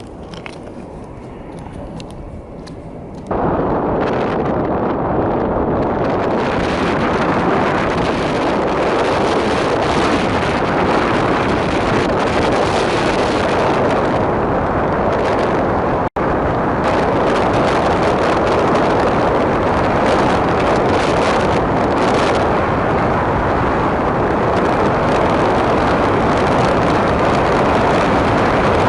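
Strong blizzard wind buffeting the microphone: a loud, steady rushing noise that starts abruptly about three seconds in, after a quieter stretch, and breaks off for an instant about sixteen seconds in.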